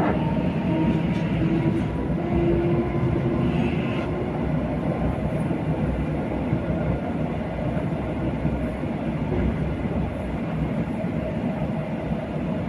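Passenger train running along the track: steady running noise with a faint held tone in the first few seconds.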